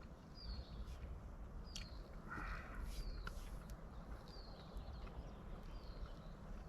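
A small bird calling over and over, one short falling high note roughly once a second, with a brief rustle about two and a half seconds in.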